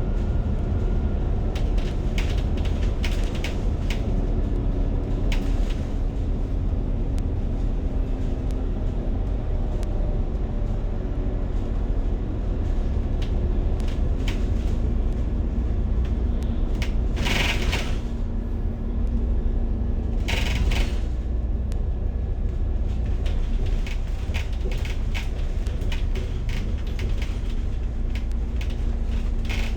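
Interior of a moving city bus: a steady low rumble of engine and road with scattered light rattles and clicks. Two brief hisses come about two-thirds of the way through.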